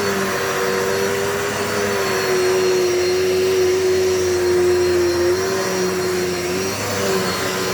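Dirt Devil Multi-Surface vacuum cleaner running steadily, a constant motor whine over the rush of air, with a brief wobble in pitch near the end.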